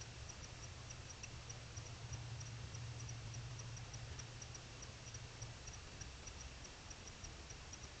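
Faint night insect ticking: short high clicks repeating at about three to four a second, some in pairs, over a low steady hum and hiss.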